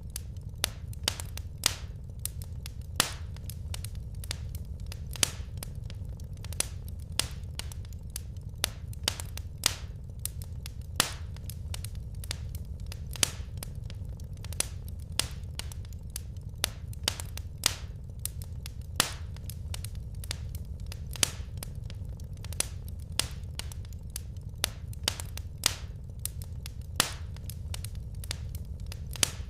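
Wood fire burning in a fireplace: irregular crackles and sharp pops of the burning logs, several a second, over a steady low rumble.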